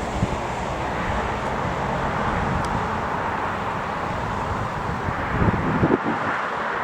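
Steady noise of jet aircraft engines running on the airfield, with wind buffeting the microphone in a few low thumps about five and a half seconds in.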